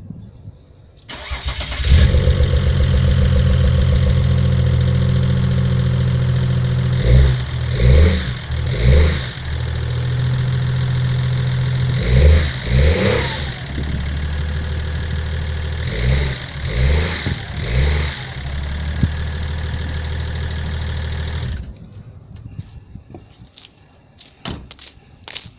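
BMW X5 3.0d's inline-six turbodiesel through a homemade exhaust: it cranks and starts about a second in, then idles loudly. It is blipped with quick throttle revs three times, then twice, then three times, settling back to idle between, and shuts off a few seconds before the end.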